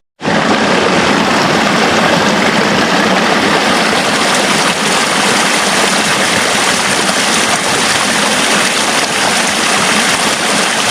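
Loud, steady rushing of water, an even hiss with no rhythm, that starts abruptly and cuts off abruptly.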